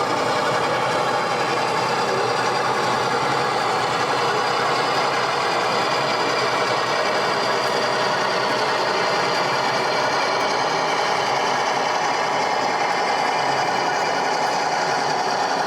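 Steady engine drone, like a diesel idling, from a sound-fitted model diesel locomotive running on the layout, with no breaks or sudden knocks.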